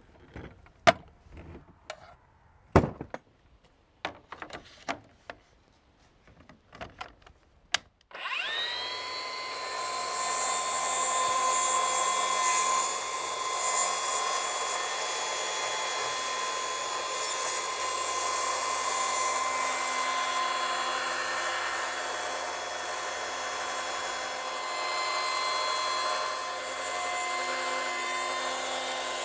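A few sharp knocks and clicks, then about eight seconds in an electric power tool spins up and runs steadily, cutting wood.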